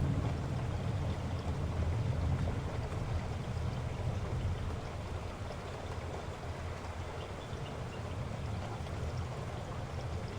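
Heavy rain falling in a steady downpour, a constant hiss of drops over a deep low rumble.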